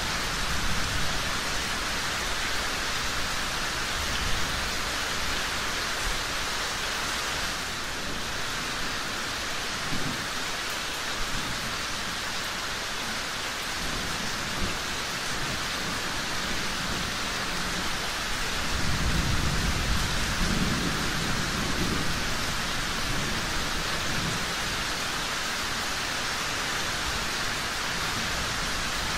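Steady rain falling, with a low rumble of thunder swelling about two-thirds of the way through. A few brief sharp ticks stand out above the rain.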